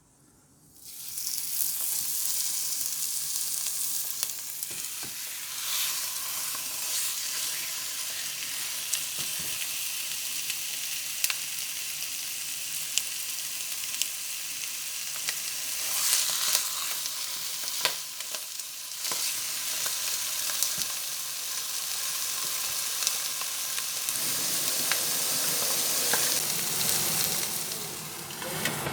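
Food sizzling in a hot frying pan, starting suddenly about a second in, with scattered light clicks from a utensil stirring it.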